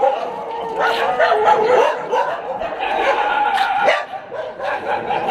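Several dogs barking and whining: short sharp barks over longer, held whines.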